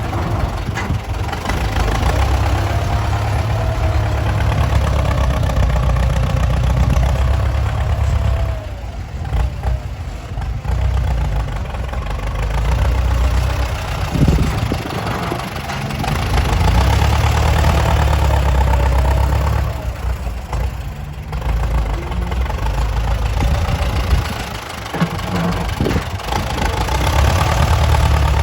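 Heavy diesel engines at work on earth-moving machinery, a loud low rumble that swells and eases, dipping briefly twice.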